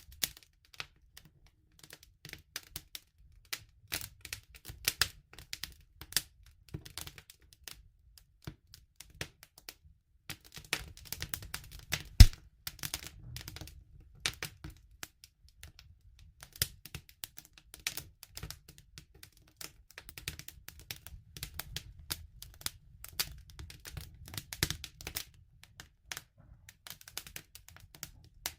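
Wood campfire crackling: irregular sharp pops and snaps over a faint low rumble, with one loud pop about twelve seconds in.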